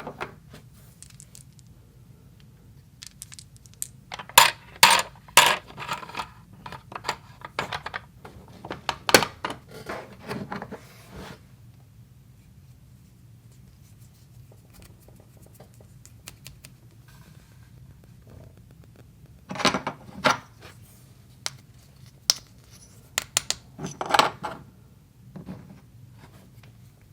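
Small toy kitchenware pieces clinking and clattering as they are handled. The taps and knocks come in two busy stretches, separated by a quiet pause in the middle.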